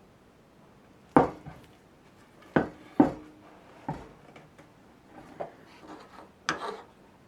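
Half a dozen irregular sharp clanks and knocks of metal objects being handled and set down. Two of them ring briefly.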